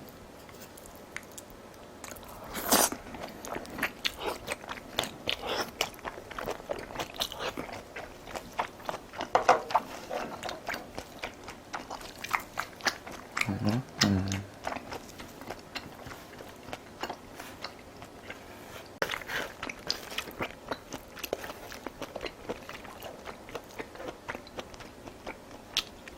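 A person chewing and biting food close to the microphone: many small wet clicks and crunches, irregular, with one louder crunch a few seconds in.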